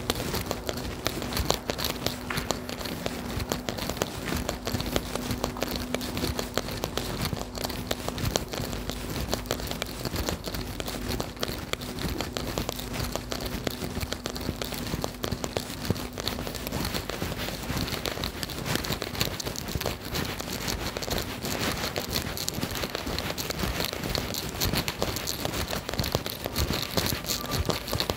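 Steady rain pattering, a dense crackle of many small drops, with a faint steady hum that fades out about halfway through.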